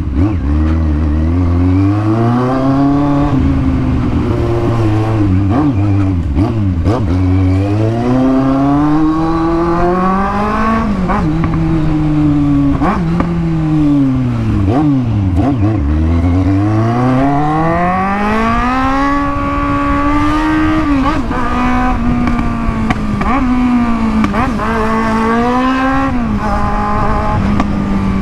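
Kawasaki Z750 inline-four motorcycle engine with an open exhaust, being ridden: it revs up and drops back again and again, the pitch climbing and falling several times as it accelerates and slows.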